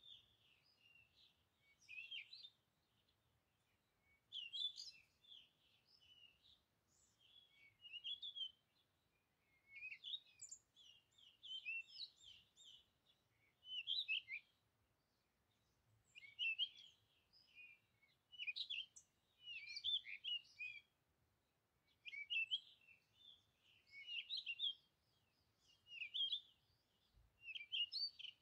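Small birds chirping and twittering faintly in short clusters of quick notes every second or two.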